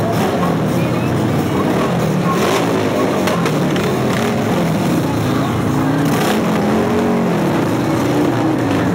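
Several motorcycle engines running at low revs, their pitch rising and falling as they ride slowly past.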